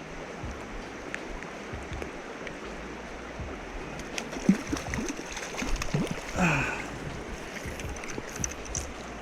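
River water rushing steadily, with a few brief louder sounds partway through and a short falling vocal-like sound about six and a half seconds in.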